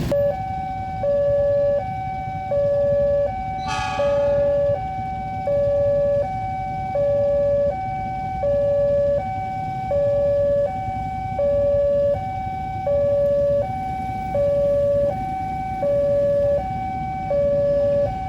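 Two-tone electronic warning alarm, as at a railway level crossing, steadily alternating a lower and a higher tone about every three-quarters of a second. Under it is a constant low engine and traffic rumble, with a brief sharp higher sound about four seconds in.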